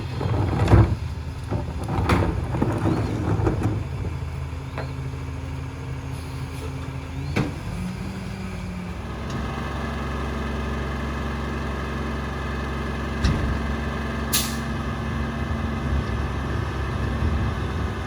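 Peterbilt 348 rear-load garbage truck's diesel engine running, with a few knocks in the first few seconds. From about nine seconds the engine holds a higher, steady speed, and a short air hiss sounds near the end.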